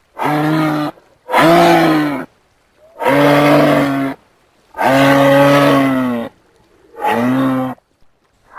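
A large hoofed animal lowing: five steady, low, moo-like calls, each about a second long, with short silent gaps between them.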